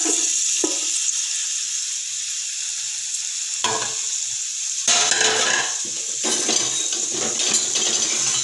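Onion rings frying in hot oil in a cooking pot, with a steady sizzle throughout. From about halfway through, a ladle stirs and scrapes them against the pot in irregular strokes.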